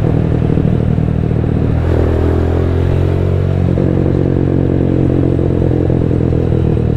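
Rusi Diablo motorcycle with a custom-made Orion muffler running under way, its exhaust note steady. The engine pitch dips briefly about two seconds in, then settles again.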